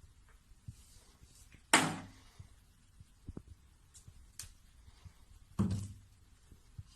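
Two loud thumps about four seconds apart, each fading quickly, with a few faint low knocks between them.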